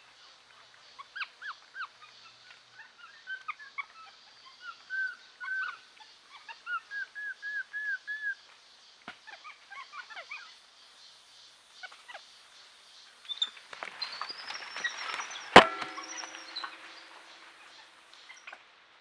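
Birds calling: short arched notes repeated in quick runs, then a noisy, hissing stretch with a rising-and-falling whistle and one sharp crack about two-thirds of the way through.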